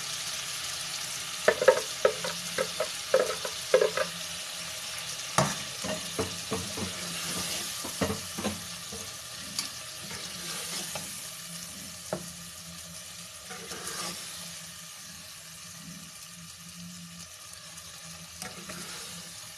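Chicken frying in oil in a pot, sizzling steadily, as a prepared paste is added and stirred in. A spoon knocks sharply against the pot in a quick run of taps in the first few seconds, then more spread-out knocks and scraping, fewer toward the end.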